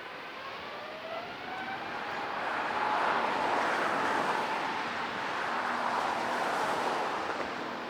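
Jet airliner engines: a rising whine over a swelling roar that is loudest from about three seconds in.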